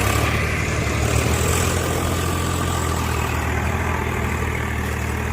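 Tractor diesel engine running steadily with a low, even hum.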